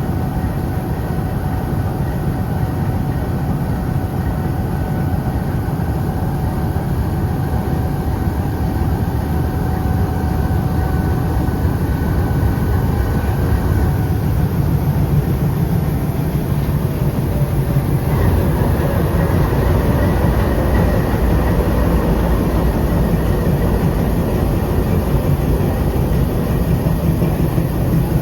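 Train hauled by diesel locomotive ZCUP-30 6354 running: a steady, heavy rumble with faint high whining tones, growing a little louder about two-thirds of the way through.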